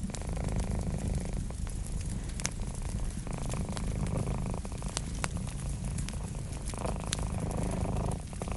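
Cat purring steadily, the purr swelling about every three seconds, over the sharp crackles and pops of a wood fire.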